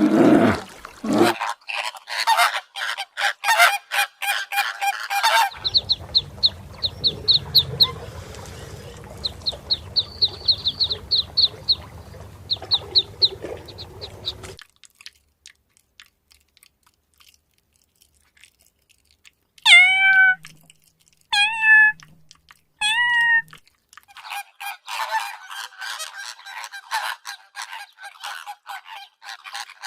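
A sequence of different animal calls. Rapid pulsing chatter comes first, then a run of short high chirps over a low hum. After a few seconds of quiet come three loud pitched calls, each starting with a short falling slide, and then more rapid pulsing chatter.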